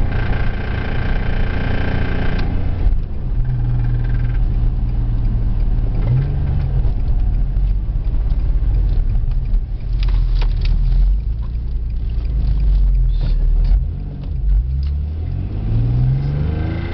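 Twin-turbocharged Infiniti G35's VQ35 V6 engine running with a loud knocking noise; sharp knocks stand out in the second half, and the engine is revved up near the end.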